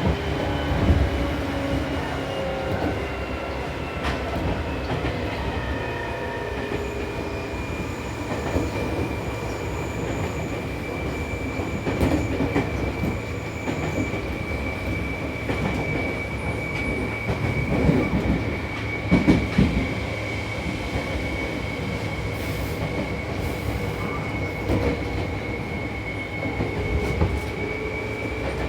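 Running noise of a Seibu New 2000 series electric train heard from inside the car: steady rumble of wheels on rail with a few joint thumps. A high whine slides down in pitch over the first few seconds, then holds steady.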